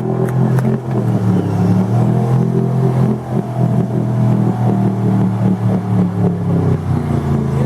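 A mud-bogging vehicle's engine running hard and revving as it churns on through the mud pit, its pitch and loudness rising and falling slightly.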